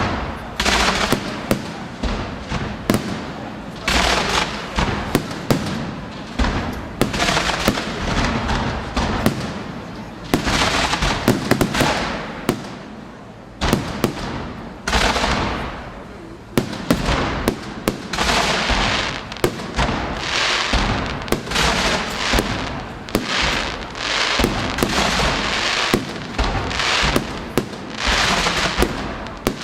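Aerial fireworks display: a dense, continuous run of shell bursts and sharp bangs, many trailed by a crackling hiss.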